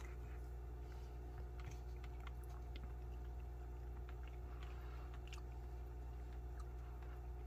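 Faint chewing and small mouth clicks of a man eating a spoonful of chicken and dumplings, over a steady low hum.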